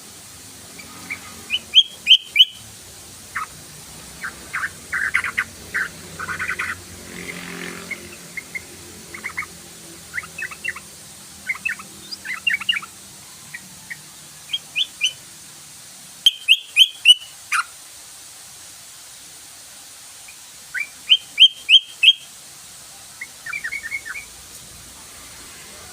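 Yellow-vented bulbul (trucukan) singing and chattering in phrases of short, quick chirping notes, with pauses between them. Three loud rapid bursts stand out: one about two seconds in, one a little past the middle and one near the end.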